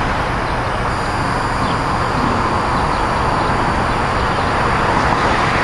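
Steady rushing rumble of a passing electric passenger train, its wheels running on the rails, holding an even level with no distinct tones.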